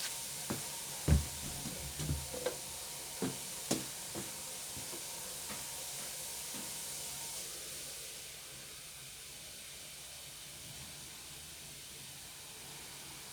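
Water running steadily from a tap, with a series of knocks and clunks over the first five seconds. The running sound gets quieter about eight seconds in.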